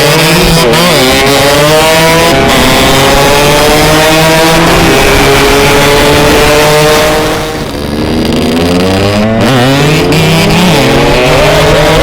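Yamaha RX-King two-stroke single-cylinder motorcycle engine at high revs, its pitch climbing steadily for several seconds. About seven seconds in it drops in pitch and loudness, then climbs again.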